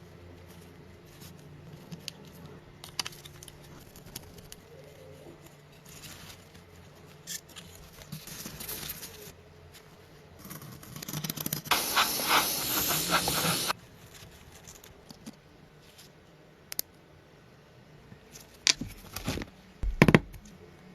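Small clicks and scrapes of handwork, with a steady hiss lasting about three seconds midway and a few sharp knocks near the end.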